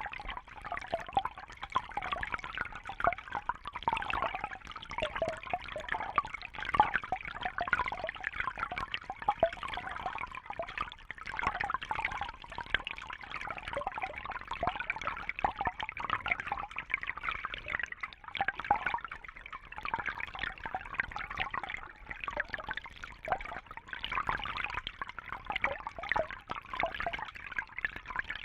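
Water trickling and bubbling steadily, a dense patter of small splashes with no pauses.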